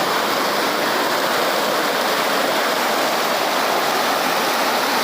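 Flowing stream water rushing steadily, with no breaks.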